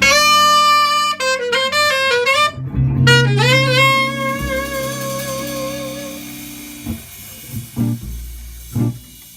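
Jazz quartet playing live: a horn runs a quick melodic line over bass notes, then holds one long note that fades out. The music thins to a few sparse plucked notes toward the end.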